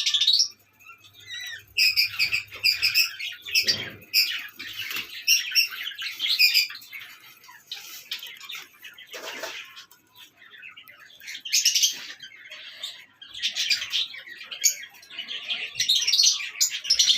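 Lovebirds chirping and chattering in high-pitched bursts, with short pauses between.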